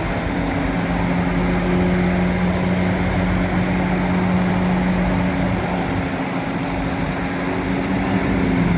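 Bulldozer's diesel engine running at a steady pitch, a loud even mechanical hum.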